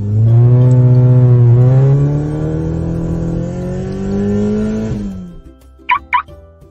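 Car engine sound effect accelerating: a loud, steady engine note that dips slightly, then climbs in pitch for about five seconds and fades out. Two short high blips follow near the end.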